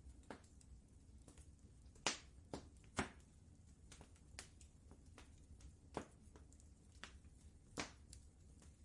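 Wood fire crackling in a fireplace: irregular sharp pops and snaps, a few louder ones standing out, over a low steady rumble.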